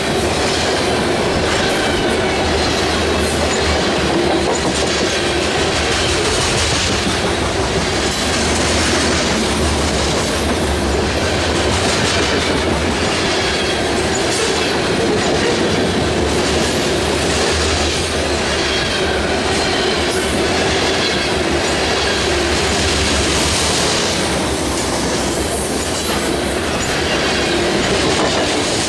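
Freight train rolling past at close range: a steady loud rumble of railcars with the clickety-clack of wheels over rail joints.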